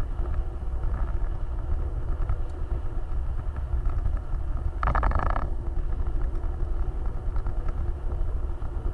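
Off-road vehicle running, a steady low rumble of engine and driving noise, with a brief high-pitched sound about five seconds in.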